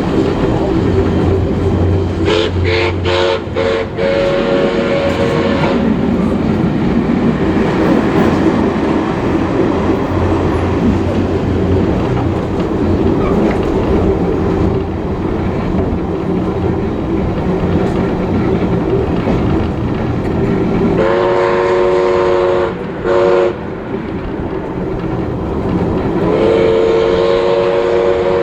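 Whistle of Baldwin-built steam locomotive 5917 sounding over the steady rumble of the train running on the rails: a few short toots leading into a held blast a few seconds in, another blast with a short break about two thirds through, and a long blast near the end.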